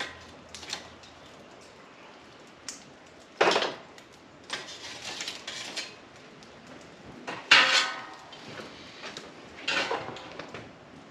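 Intermittent metal clanks and clatters as the cast iron camp oven and charcoal gear are handled, with the loudest knocks about a third of the way in and again past the middle, a few ringing briefly.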